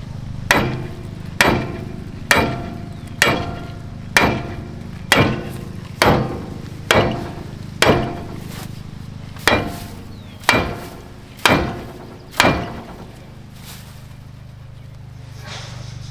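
A hammer beating on metal on the seized front end of a 1970 Chevy C-40 truck to free it up: about thirteen blows, roughly one a second, each ringing briefly. The blows stop about twelve seconds in.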